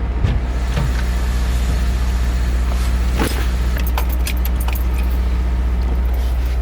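Car engine running steadily with a deep, even drone, and keys jingling briefly about four seconds in.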